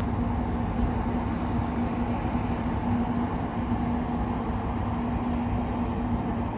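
A motor vehicle's engine running steadily: a loud low rumble with a constant hum, starting abruptly.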